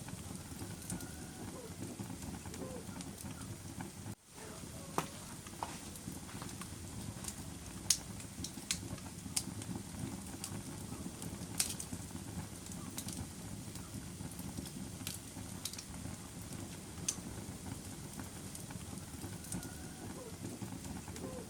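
Wood fire burning in a fireplace: a steady low rush of flames with scattered sharp crackles and pops from the burning wood. The sound briefly drops out about four seconds in.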